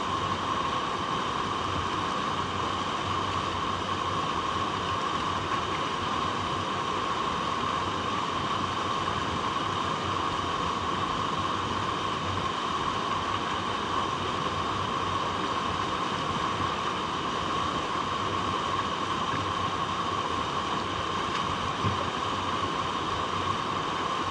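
Water flowing over rocks in a stream, a steady, unbroken rush.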